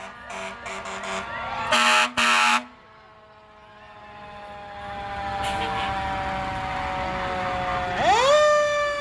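Fire truck air horns blasting: a few short toots, then two long loud blasts about two seconds in. After that a fire engine siren winds slowly down in pitch, then winds sharply back up near the end.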